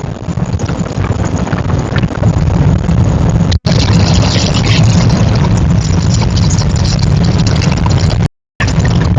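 Loud vehicle driving noise picked up by a dashcam: deep road and engine rumble with wind rushing over it. It drops out briefly once a few seconds in and twice near the end.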